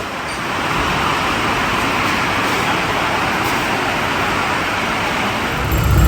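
Steady street traffic noise, with a louder low rumble coming in near the end.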